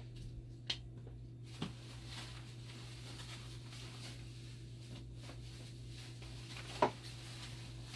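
Dialysis machine running with a steady low hum and a few sharp clicks, the loudest near the end. Its acid and bicarb pumps are making an abnormal noise, which the technician suspects comes from a faulty sensor board rather than the pumps.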